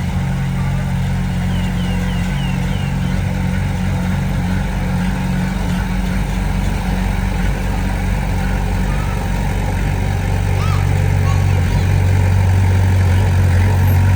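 Diesel engine of heavy earthmoving machinery running steadily at low revs, its low hum growing a little stronger about eleven seconds in.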